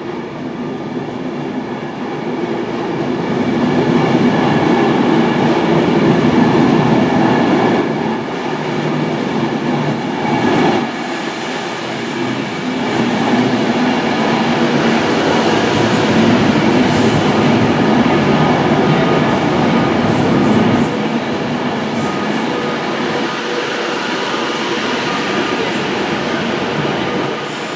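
Class 390 Pendolino electric train pulling into the platform: a steady running hum with several held whining tones. It swells a few seconds in, eases, then swells again through the middle before settling down near the end.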